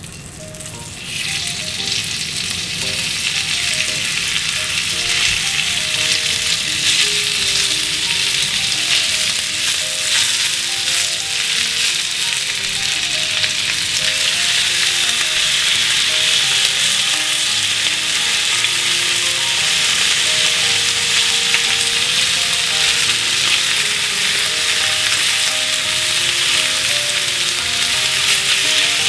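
Thinly sliced pork sizzling in hot oil in an iron frying pan, the sizzle starting about a second in and growing louder as the pork is stirred with chopsticks and blocks of thick deep-fried tofu are added. A soft melody of background music runs underneath.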